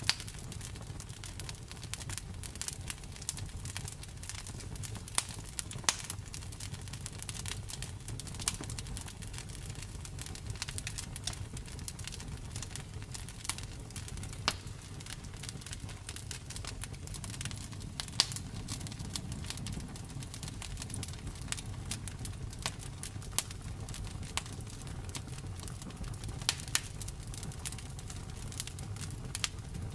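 Wood fire crackling and popping steadily over a low rumble of flames, with irregular sharp snaps, a few louder single pops among them.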